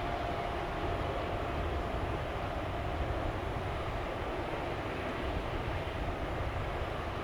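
Jet airliner engines, a steady rumble with a faint steady whine.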